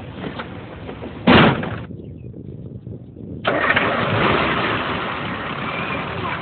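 Car engine sounds: a short loud burst about a second in, a brief lull, then the engine starting suddenly about three and a half seconds in and running on.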